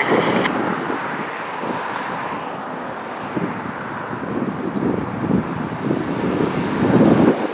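Airbus A380's four jet engines at take-off power, a steady roar with an uneven low rumble that swells and fades, loudest near the end.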